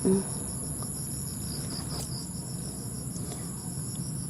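Chorus of insects, crickets or similar, trilling steadily: two continuous high-pitched trills with a rapidly pulsing trill beneath them. A brief low pitched blip, the loudest sound, comes right at the start.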